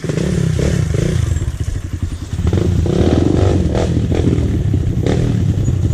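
Dirt bike engine running with a fast, even firing beat, starting abruptly and getting louder about two seconds in.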